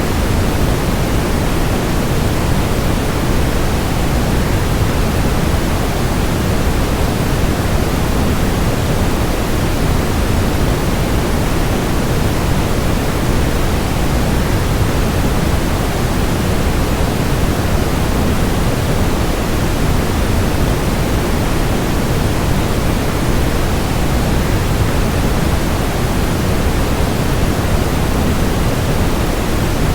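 Waterfall rushing, blended with added white noise: a steady, unchanging noise, fullest in the low end and thinning toward the highs.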